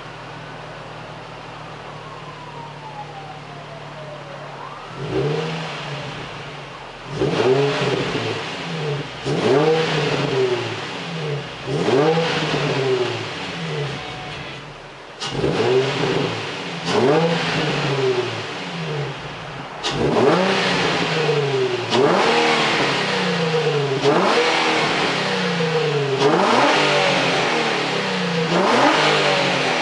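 2006 Nissan 350Z's 3.5-litre V6, warm, with an Injen cold air intake and M2 Performance Y-pipe on an otherwise stock exhaust. It idles steadily, then from about five seconds in is blipped again and again, revving up and falling back every couple of seconds. The exhaust still sounds almost stock, and the intake is probably the louder part.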